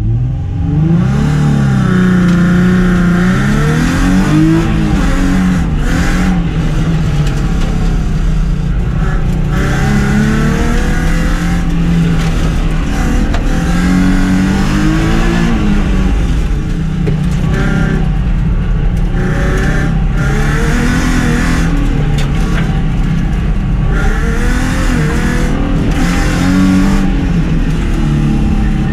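A car's engine on an autocross run, revving hard, its pitch climbing and falling again and again as the car accelerates, brakes and shifts through the course.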